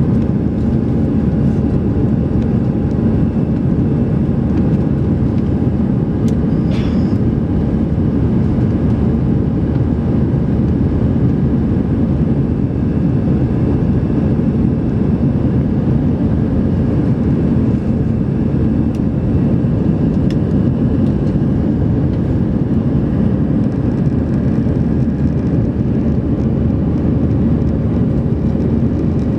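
Airbus A320-200's jet engines and airflow heard inside the passenger cabin in flight: a steady, loud low rumble with a faint, constant hum of a few tones over it.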